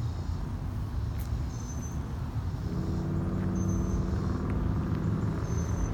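A motor vehicle's engine running steadily, its low hum getting louder about three seconds in.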